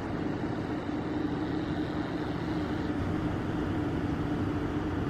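Steady road-traffic and vehicle noise with a constant low hum over it.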